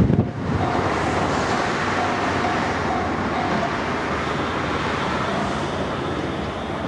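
Electric train running past a Japanese level crossing: a steady rumble and rush of the passing cars, easing slightly near the end. The crossing bell's repeated clang is faint behind it.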